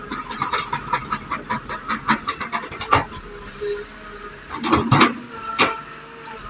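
Excavator at work: a rapid run of metallic clanks and knocks, then a few louder single knocks near the end over a faint engine hum.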